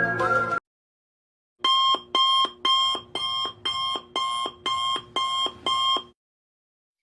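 Electronic alarm-clock beeping: nine even, pitched beeps, about two a second, that then stop. A tune ends just before them.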